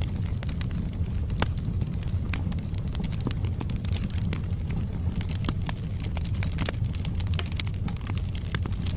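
Wood fire burning in a fireplace: a steady low rumble of flames with frequent sharp crackles and pops from the logs at irregular moments.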